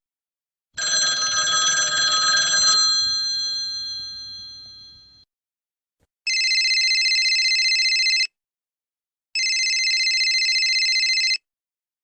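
Sound-effect playback: a ringing hit that fades out over about four seconds, then an old-style telephone bell ringing twice, each ring about two seconds long with a second's pause between.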